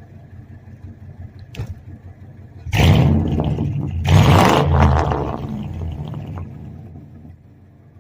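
A 2000 Ford F-150's 5.4-liter V8 idling, then revved hard about three seconds in and again a second later, before the engine speed falls away.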